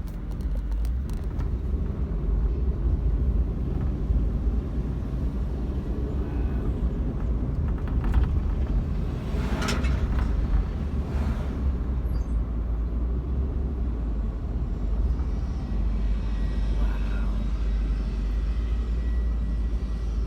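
Car driving, a steady low road and engine rumble, with a brief louder rush about halfway through.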